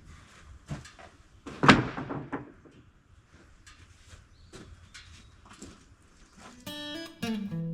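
Scattered knocks and clicks with one loud bang a little under two seconds in; acoustic guitar music starts near the end.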